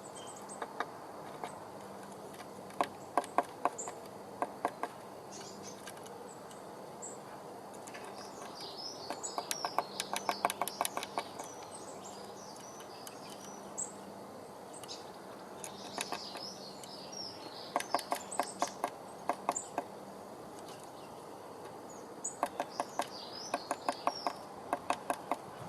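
A bird pecking, making runs of quick sharp taps several times a second, broken by pauses, with high chirping bird calls during some of the runs.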